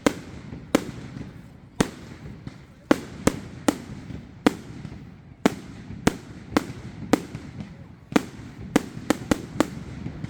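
Fireworks exploding overhead: a run of sharp bangs at irregular intervals, about two a second, over a steady rumble and crackle of more distant fireworks.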